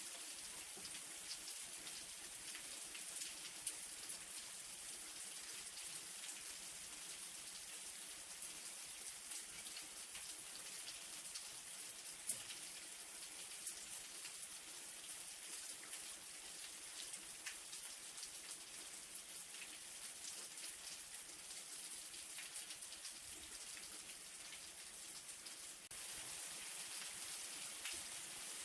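Light rain falling, a steady patter of many small drops with a few louder single drops standing out.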